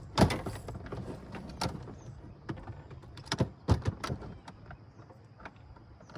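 Irregular knocks, clatter and rustling, as of fish and gear being handled. The loudest knock comes just after the start, with a few more sharp knocks about three and a half seconds in, then the sounds thin out.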